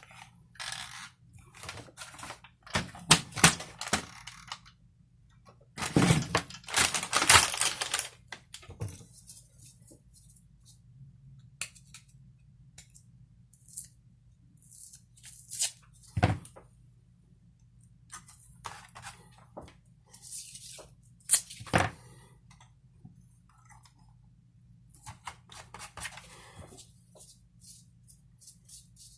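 Hand work on small hard parts: irregular clicks, knocks and short scraping or rustling spells, the loudest runs a few seconds in and again a few seconds later, with single sharp knocks near the middle. A faint steady low hum underlies it.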